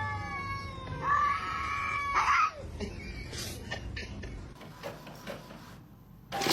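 Domestic cat meowing in long, drawn-out yowls: one call trailing off at the start, and another from about a second in, lasting about a second and a half. Then a few faint clicks, and a loud rushing noise starts right at the end.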